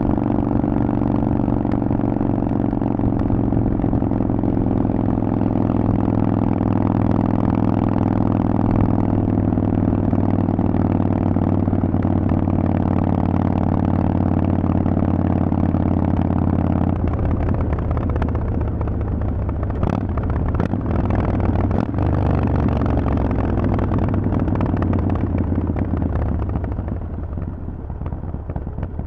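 Harley-Davidson Forty-Eight's 1200 cc V-twin running through Vance & Hines pipes, holding a steady engine speed. About two-thirds of the way in, the note drops lower and rougher as the engine comes off speed. A few sharp clicks follow, and it is somewhat quieter near the end.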